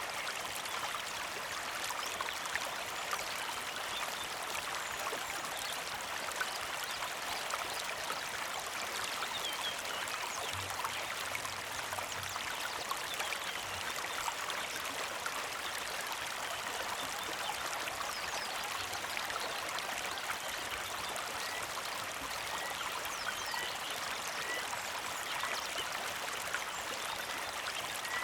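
Small mountain creek flowing and trickling steadily. A bird chirps repeatedly in the last several seconds.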